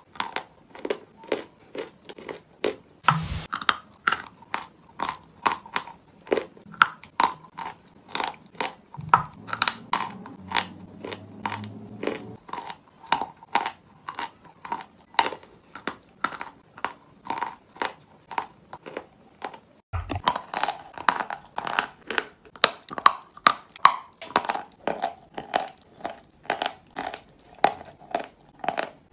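Close-up chewing of chalk: a steady run of crisp crunches about two a second, with a few brief breaks.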